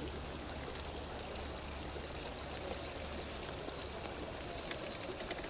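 Steady rush of running water, like a small stream flowing over rocks.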